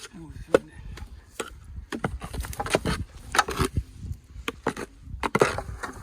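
An irregular run of sharp knocks and thumps, a dozen or more, the loudest about half a second in.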